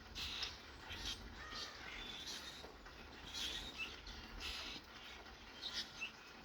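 Small birds chirping: short high chirps at irregular intervals, over a faint steady hiss of rain.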